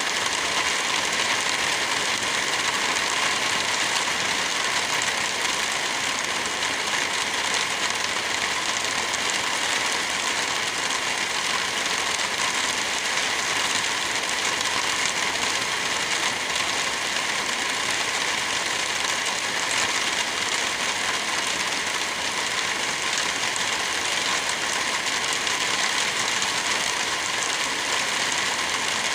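Steady rain, an even hiss that holds constant throughout.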